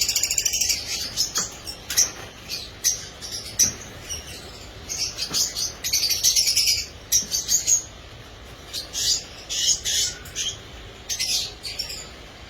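Lovebirds chirping and chattering in short, high-pitched bursts that come one after another, with brief gaps between them.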